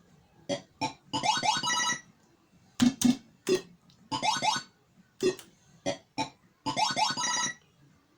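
Cashcade 2p coin pusher arcade machine playing its electronic sound effects: three rising runs of bleeping tones, each about a second long, with sharp clicks between them.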